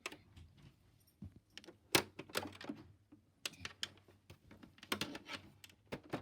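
A series of irregular sharp clicks and taps, a few a second, like small hard objects being handled or keys being pressed.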